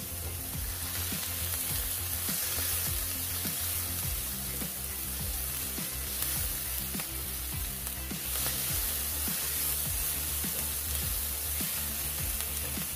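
Diced onion, garlic and green bell pepper sizzling in oil in a nonstick frying pan as a silicone spatula stirs them, with steady background music underneath.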